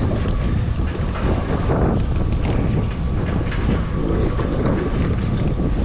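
Jet ski engine running, with wind buffeting the microphone.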